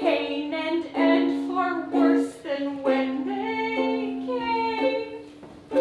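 A solo voice singing a song over light instrumental accompaniment, with short phrases and a long held note in the middle.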